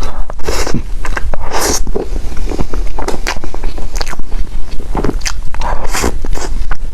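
Close-miked eating: biting and chewing food, a close run of short clicks and mouth sounds with no pause.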